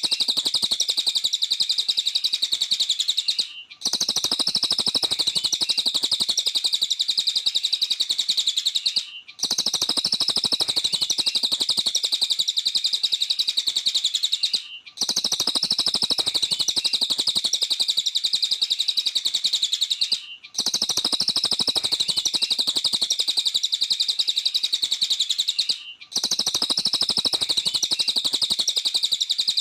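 A cililin (a small Indonesian songbird) singing a rapid, continuous stream of high chirping notes. It comes in stretches of about five seconds, each broken by a brief pause.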